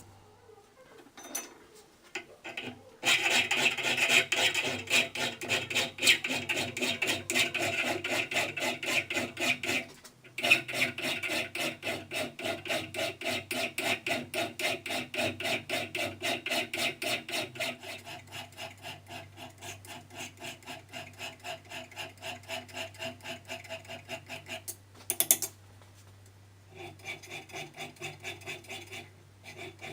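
Rhythmic scraping of metal, about three even strokes a second, in long runs with two short breaks.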